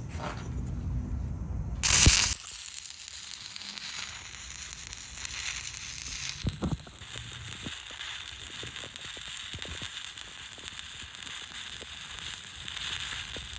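Stick welding arc struck about two seconds in with a brief loud burst, then the steady crackle and hiss of a 3/32-inch 7018 rod burning at 85 amps on a vertical-up fillet weld.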